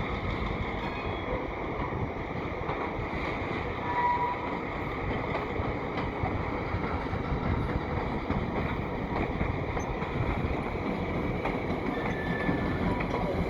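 Train moving on rails with a steady rumble.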